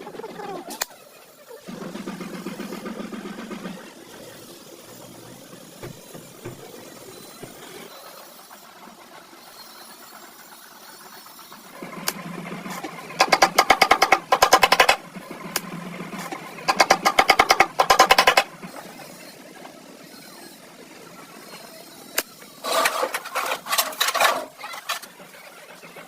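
Workshop tool noise: bursts of fast mechanical rattling, two loud ones of about a second and a half in the middle and a shorter, broken set near the end, with lighter clatter between.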